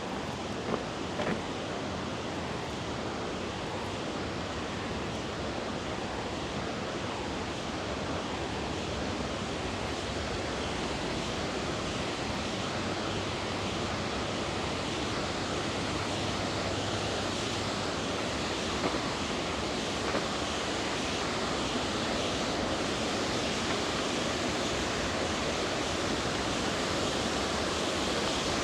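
A river rushing steadily, a constant watery noise that slowly grows louder.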